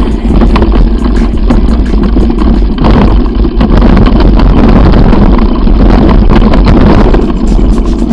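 Loud wind buffeting the microphone on a bicycle speeding downhill, a dense rumbling roar with many short knocks and rattles from the ride over rough ground.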